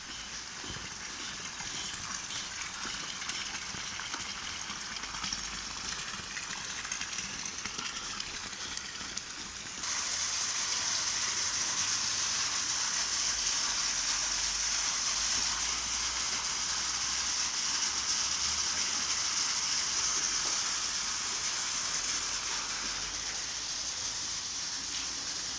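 Steady hiss of falling and running rainwater, which turns abruptly louder about ten seconds in.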